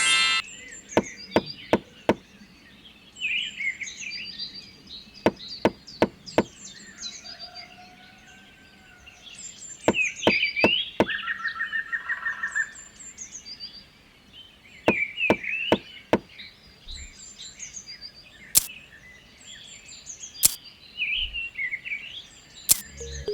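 Irregular sharp knocks and taps from handwork on small wooden parts, with birds chirping in the background throughout.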